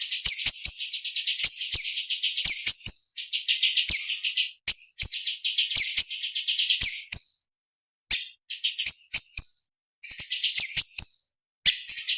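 Cucak cungkok leafbird singing a fast, harsh chattering song: dense rattling trills mixed with sharp high notes, in bursts broken by short pauses a little after halfway and again near the end.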